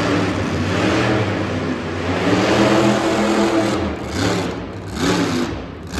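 Monster truck engine revving, its pitch rising and falling several times as the throttle is opened and closed.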